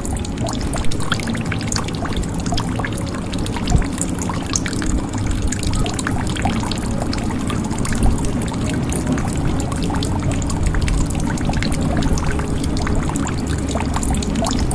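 Water pouring and trickling into a jug, with a dense patter of sharp drips and splashes over a steady low rush.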